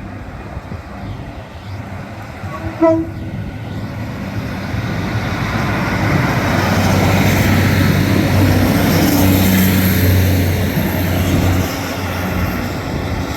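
Diesel passenger train arriving: a short horn toot about three seconds in, then engine and rail noise building to a loud peak midway and easing off slightly near the end.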